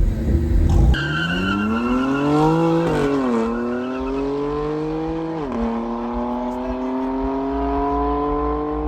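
Car engine accelerating hard at full throttle in a drag race, its pitch climbing and dropping back at two upshifts, about three and five and a half seconds in. It opens with a heavy low rumble and a brief high squeal.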